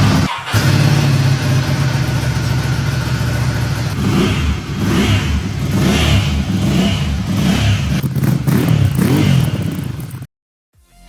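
Ducati L-twin motorcycle engine running, then revved in a series of short throttle blips from about four seconds in; the sound cuts off abruptly near the end.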